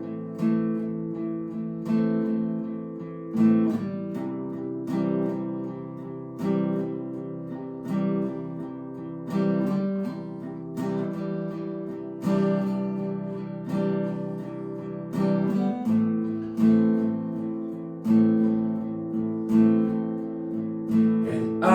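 Acoustic guitar played solo, strumming chords in a slow, steady rhythm, with one strong strum about every second and a half that rings on and fades before the next.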